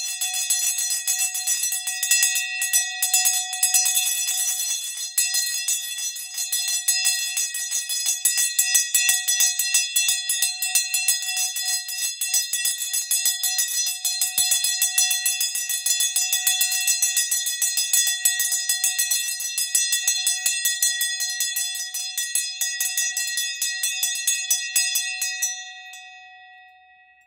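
A bell rung continuously with many rapid strikes, its tones sustained throughout. Near the end the striking stops and the ringing dies away.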